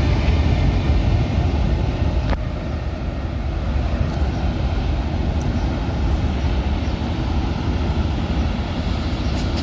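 Flixtrain passenger train hauled by a Siemens electric locomotive rolling past, a steady low rumble of wheels on the rails, with one sharp click about two and a half seconds in.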